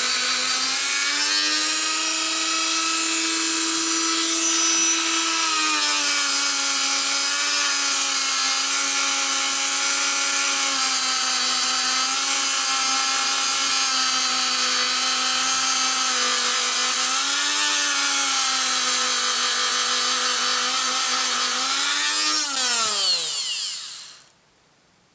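Dremel rotary tool with a polishing head running steadily against a metal shock absorber housing, its whine wavering slightly in pitch as pressure on the part changes. Near the end it is switched off and winds down with a falling whine.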